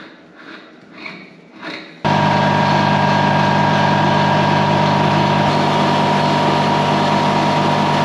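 Piston air compressor running steadily with a fuel filter fitted on its intake as a silencer, cutting in abruptly about two seconds in. Its tone is mellower and not as high pitched: the filter softens the harsh sound from the inlet valves.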